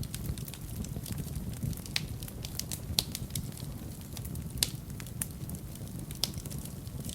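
Fire burning in a fireplace: a steady low rumble of flames with frequent sharp crackles and pops, a few of them louder than the rest.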